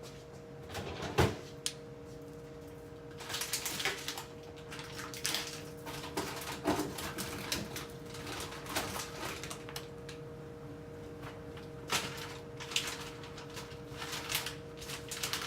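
Food containers and packages being taken out of a refrigerator and set down on a counter: scattered knocks and rustles over a steady hum.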